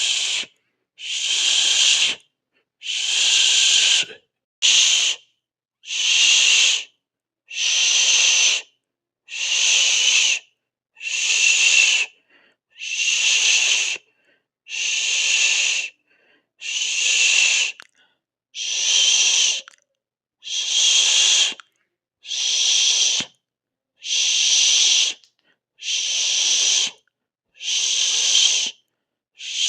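A person hissing a long 'sss'/'shh' sound through the teeth, over and over: about seventeen strokes of a second or so each, one roughly every second and a half, with brief silences between.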